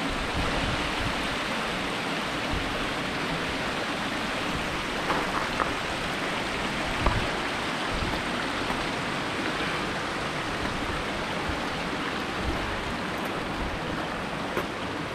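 Steady rush of creek water flowing over rock, with a few light knocks about five and seven seconds in.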